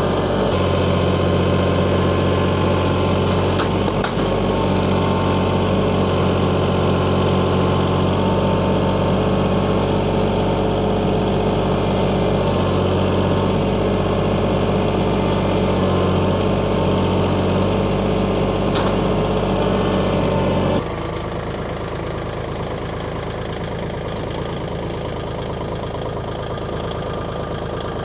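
Portable sawmill's small gasoline engine running steadily at a high, even speed. About two-thirds of the way in it drops to a lower, quieter running speed, then fades near the end.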